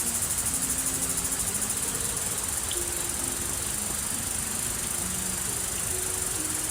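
Steady high-pitched insect chorus, trilling rapidly without a break, over soft background music of slow held low notes.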